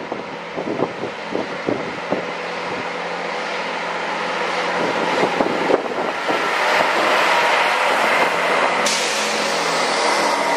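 A diesel multiple unit approaching and running past the platform at speed. A rising rush of engine and wheel noise with a steady whine builds to its loudest in the second half, after a few sharp clicks in the first couple of seconds.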